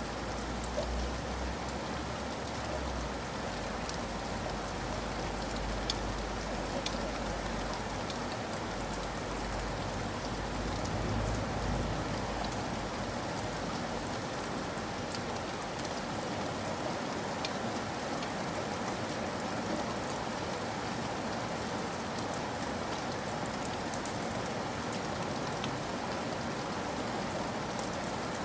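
Steady rainfall: an even hiss of rain with scattered sharp drop ticks. A low rumble sits underneath during the first half and fades out about halfway through.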